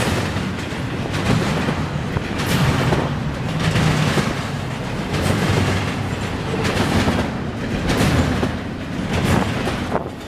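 A train rolling past, its wheels clacking over rail joints in a repeating rhythm above a steady rumble.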